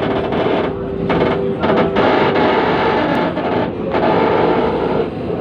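LRT-1 light rail train heard from inside the car as it pulls out of the station: loud running noise with a steady hum underneath.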